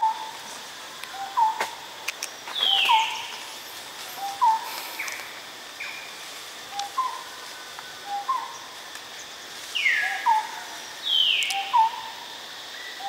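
Forest birds calling: a short two-note call, a low note followed by a higher one, repeats about once a second, while louder whistles slide steeply downward about two and a half seconds in and twice near the end.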